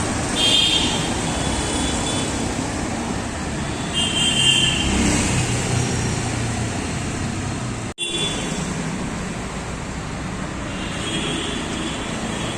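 Steady road traffic noise from passing vehicles, with a few short high-pitched tones and a momentary dropout about eight seconds in.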